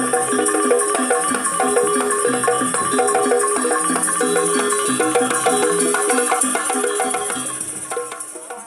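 Jaranan gamelan music: struck pitched metal percussion playing quick repeating note patterns over a steady high shimmer, fading out near the end.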